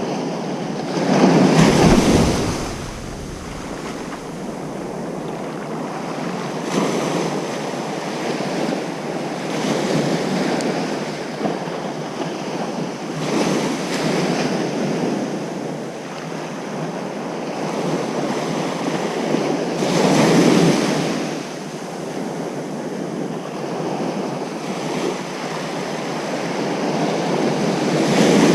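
Ocean surf washing onto a beach, a continuous rush of water swelling and ebbing every few seconds, with the biggest breakers about two seconds in and again about twenty seconds in.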